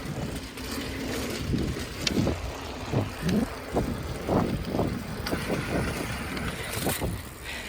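Rumbling ride noise of a small vehicle moving along at about 15 to 18 miles an hour, with irregular bumps and surges.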